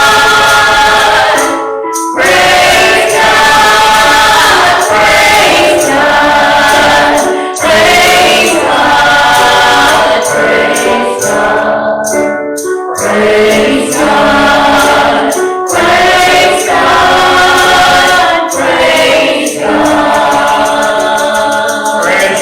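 Congregational gospel singing with choir voices and instrumental accompaniment, a tambourine faintly in it.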